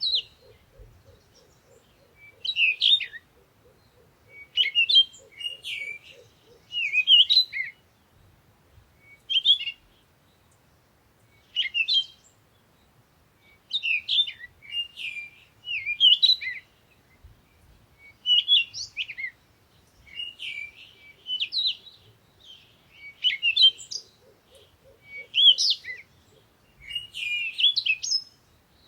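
A songbird singing short, warbled phrases of chirps and whistles, one phrase every two seconds or so. A faint, low, rapid pulsing trill runs under the song for the first several seconds and returns briefly near the end.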